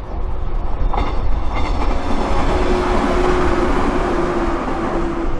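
Local electric train on the Sanyo Main Line passing close by: a few clicks of wheels over rail joints about a second in, then a rising rush of running noise that peaks midway, with a steady motor hum from about halfway on.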